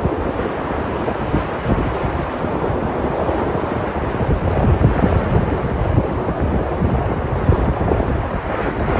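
Sea surf washing onto the shore, a continuous rush of breaking waves with wind buffeting the microphone.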